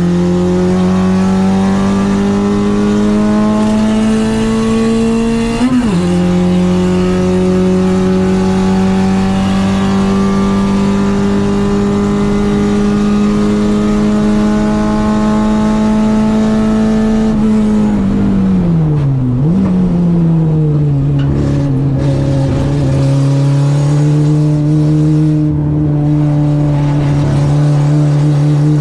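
Citroen AX 8-valve four-cylinder engine on twin Weber 40 carburettors running hard at high revs. There is a quick gear change about six seconds in and then a long steady pull. Past the middle the revs fall sharply and then climb again.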